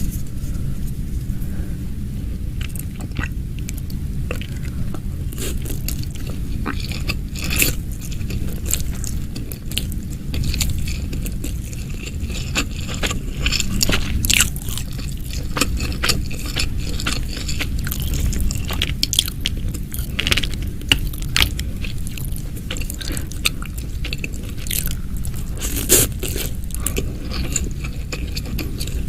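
Close-miked eating sounds: crispy fried chicken being bitten, crunched and chewed, with many short crackles and scrapes, over a steady low rumble.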